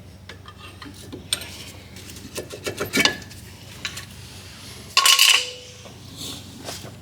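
Steel hand tools and brake parts clinking and clattering, with one loud ringing metallic clank about five seconds in.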